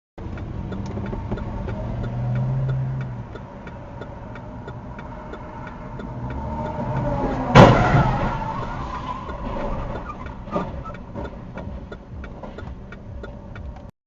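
Car driving with its engine running and a steady ticking, then a loud sudden crash about seven and a half seconds in as the vehicles collide, followed by a smaller knock about three seconds later.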